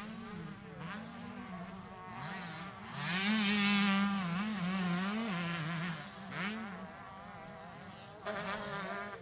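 125cc two-stroke motocross bike engines buzzing at high revs, pitch rising and dropping as the riders work the throttle and shift gears; loudest as a bike comes close about three seconds in.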